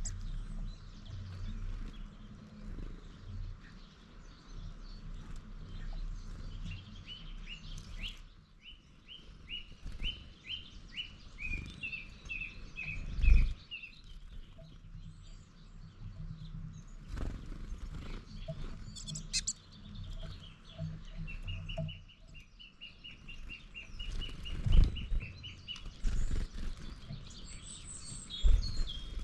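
Outdoor birdsong: small birds singing runs of quick repeated notes, over a low rumble of wind on the microphone. Three loud dull thumps, near the middle, about 25 s in and near the end, stand out above the song.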